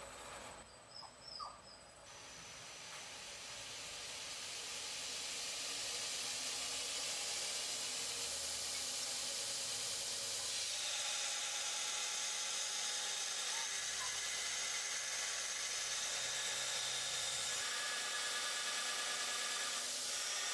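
A workshop power tool running steadily with a high hiss, starting about two seconds in and building to full level over the next few seconds.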